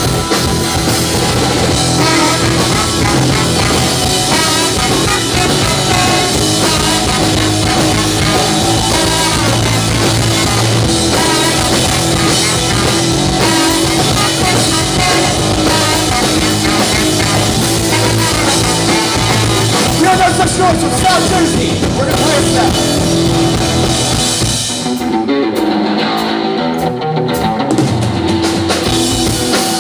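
Live punk rock band playing an instrumental passage on distorted electric guitar, bass and drum kit. About 25 seconds in, the cymbals drop out and the band thins out for a few seconds before the full kit returns.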